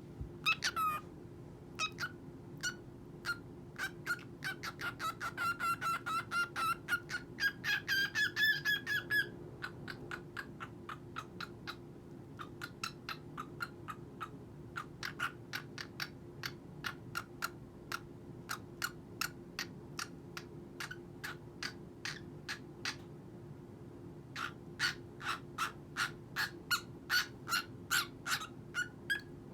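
Cockatiel chirping in a long run of short, quick notes, several a second, with a brief lull about three-quarters of the way through. A steady low hum sits underneath.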